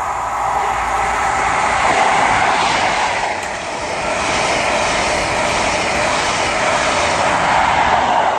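A Class 43 HST (diesel power cars at each end) passing through the station at speed without stopping: a steady, loud rush of diesel engine and wheels on rail. It grows louder about two seconds in as the train reaches the platform, dips briefly near the middle, then stays loud as the coaches and rear power car go by.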